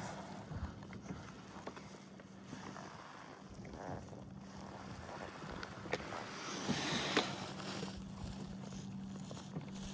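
Water sloshing against a kayak hull, with wind on the microphone and a steady low hum. A rushing wash swells about six to eight seconds in, with a couple of sharp knocks.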